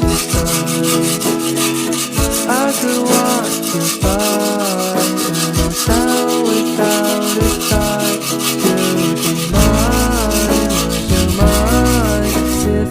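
Fast, even back-and-forth sanding strokes, over a song with a singing voice and guitar.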